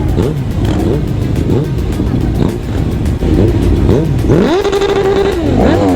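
Motorcycle engines of a large group ride revving, their pitches rising and falling over one another. Near the end one engine climbs to high revs, holds there for about a second, then drops.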